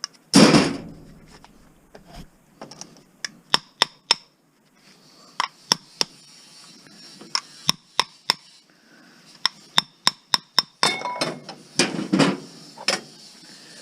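Metal clinks and knocks of hand tools and metal parts while a range hood fan assembly is taken apart, with a heavier clatter about half a second in and a quicker run of knocks near the end.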